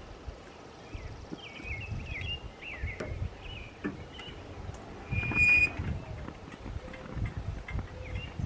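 Small birds chirping and calling, with one louder, clear call about five seconds in, over a low, uneven wind rumble on the microphone.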